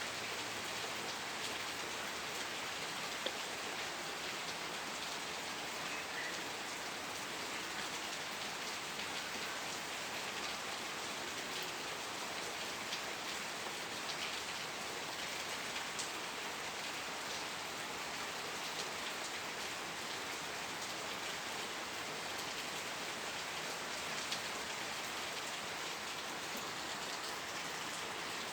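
Steady rain falling, an even hiss with scattered drop ticks and a few slightly louder drops.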